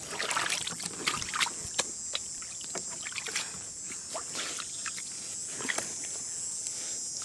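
Water sloshing and dribbling, with many small irregular splashes and clicks over a steady high hiss.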